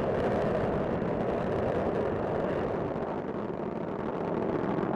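Space Shuttle Discovery's solid rocket boosters and main engines during ascent, a steady rocket noise with no distinct events.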